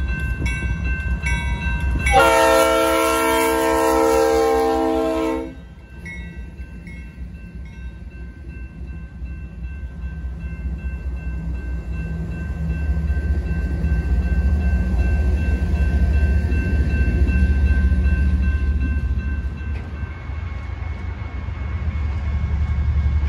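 BNSF diesel freight locomotives blowing their air horn: a blast ends as the sound begins, and a loud long blast of about three seconds starts some two seconds in. After it comes the low, steady rumble of the diesel engines and train, growing louder as it draws near and passes.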